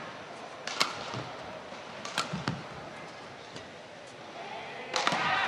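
Badminton rackets striking a shuttlecock: a few sharp cracks spaced a second or more apart, over a steady arena crowd hum. Crowd noise swells near the end.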